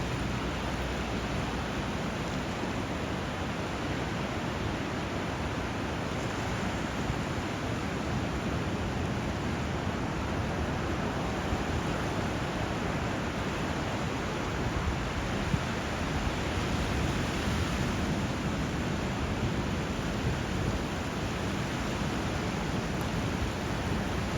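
Steady rush of moving water where a river meets the sea: an even hiss with no distinct waves breaking and no bird calls standing out.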